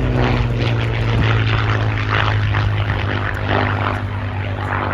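Propeller-driven aeroplane flying past, its engine droning steadily with a low, even hum.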